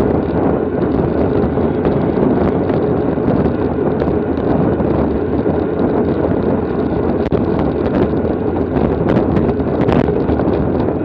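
Wind rushing over a rider's camera microphone during a bicycle race, a steady loud noise, with a few short clicks in the second half.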